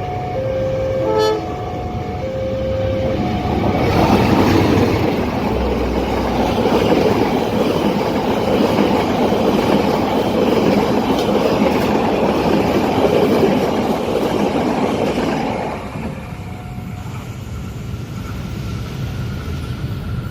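Level-crossing warning alarm sounding two alternating tones, with a short train horn toot about a second in. Then a long train runs past the crossing for about twelve seconds with a steady rushing rumble of wheels on rails, which falls away sharply near the end.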